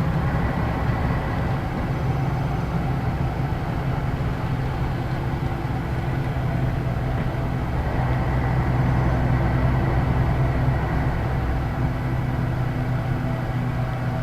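Scania K113 bus's diesel engine running while the bus is under way, a steady low drone with road noise. The engine note swells slightly about eight seconds in and eases again a few seconds later.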